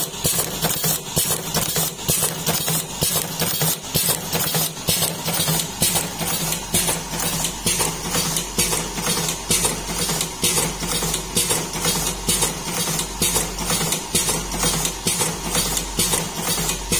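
Magnum Super Turbo automatic cigarette filling machine running, its mechanism clacking in an even rhythm of about two and a half strokes a second over a steady motor hum.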